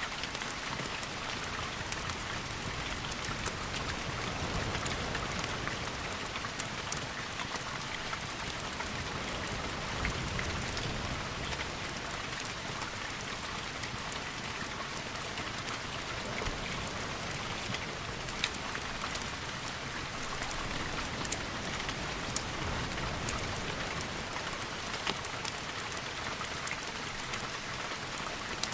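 Steady heavy rain hissing, with many scattered sharp ticks of drops or crackle throughout and a low rumble swelling now and then underneath.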